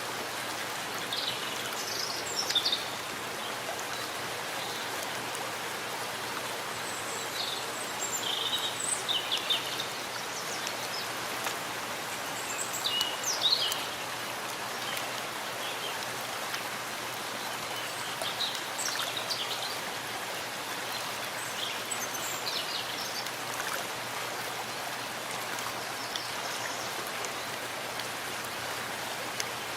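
Steady forest rain, an even hiss of drops on leaves and ground. Clusters of short, high bird chirps come through several times in the first two-thirds, the loudest about thirteen seconds in.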